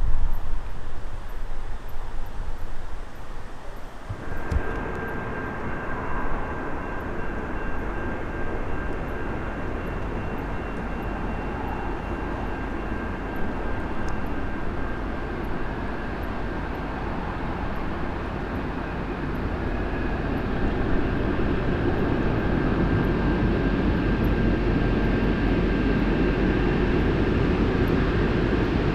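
N class diesel-electric locomotive's engine running with a steady low rumble; a steady whine sets in about four seconds in, and the engine grows louder in the second half.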